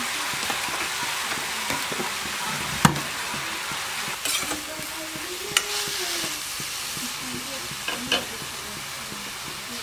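Leafy greens (saag) sizzling as they fry in a nonstick pot while being stirred, with a steady hiss that fades slightly. Sharp knocks of the stirring utensil against the pan come three times, the loudest about three seconds in, then near five and a half and eight seconds.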